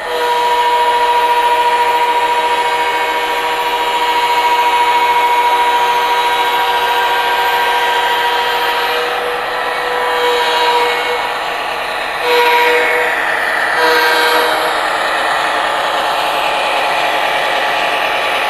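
Model diesel locomotive's onboard sound system playing a diesel air horn: one long blast of about nine seconds, then three short toots, over the steady recorded diesel engine rumble.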